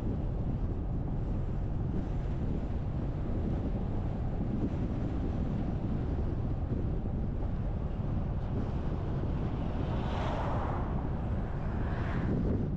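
Steady low rumble of wind buffeting the microphone and road noise from a moving car, with a brief brighter whoosh swelling and fading about ten seconds in and another near the end.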